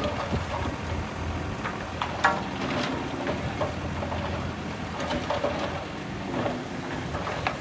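Diesel earthmoving machinery running low while soil and stones rush and tumble, with scattered knocks and clanks through a crackling noise.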